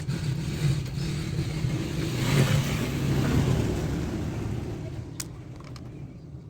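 A motor vehicle going past, its noise swelling to a peak about two and a half seconds in and then fading, with a single sharp click near the end.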